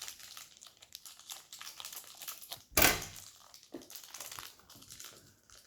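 Plastic toy packaging crinkling and rustling as it is handled, with one louder rustle about three seconds in.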